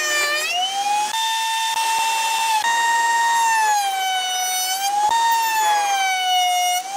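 High-speed woodworking power tool's electric motor whining steadily, its pitch sagging and recovering as it is loaded by the cut, with a few abrupt jumps in pitch.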